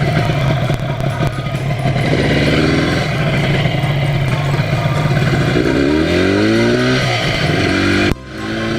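Yamaha TZR250 1KT two-stroke parallel-twin engine running under way, rising in pitch as it revs up about six seconds in. The sound drops out abruptly for a moment near the end, then resumes at a steady pitch.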